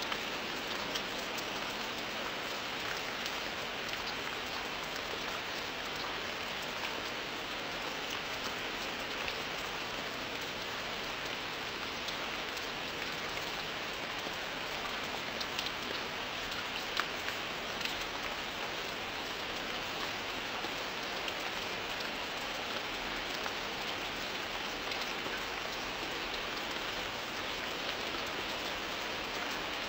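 Steady rain falling, an even hiss of rain with many small sharp drop ticks through it and no thunder.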